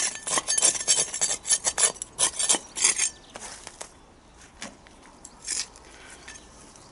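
Hand weeding tool digging and scraping in garden soil to lift weeds: a fast run of sharp scrapes and clinks for about three seconds, then a few scattered ones.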